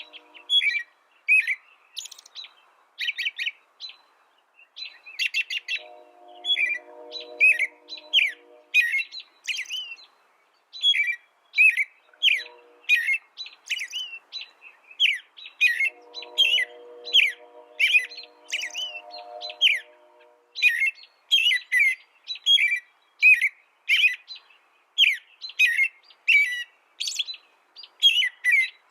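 A small songbird singing a long, fast run of chirps and short gliding notes, phrase after phrase with brief gaps. Faint, low, steady humming tones come and go underneath a few times.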